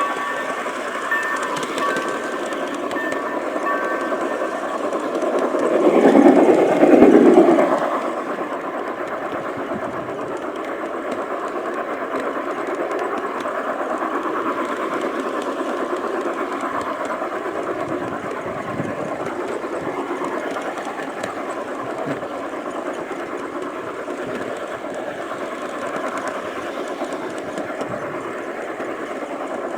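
G-scale garden railway train running along its track, a steady rolling rattle of wheels on rail, picked up by a camera riding on the train. It swells louder for a couple of seconds about six seconds in.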